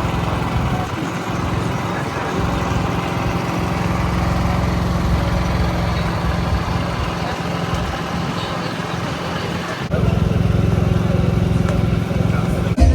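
An engine running steadily with a low hum over a rushing background noise; the sound shifts abruptly about ten seconds in.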